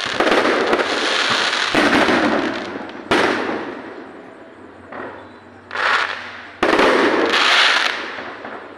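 Aerial firework shells bursting overhead: about half a dozen sharp bangs, each trailing off over a second or more before the next.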